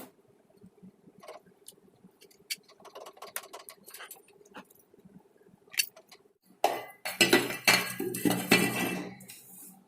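Small hard parts clinking and tapping as they are handled, then a louder rattling, scraping stretch lasting about two and a half seconds near the end.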